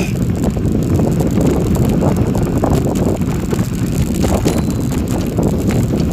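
Bicycle riding on a gravel forest road: a steady rumble of tyres on gravel with scattered small rattles, under heavy wind noise on the microphone.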